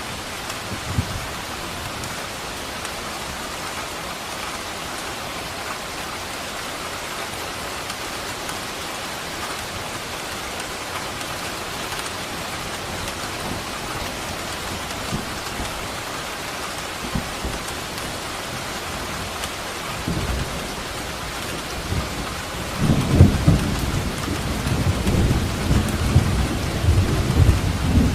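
Steady rain, with thunder rolling in about twenty seconds in and building into a loud, deep rumble over the last few seconds.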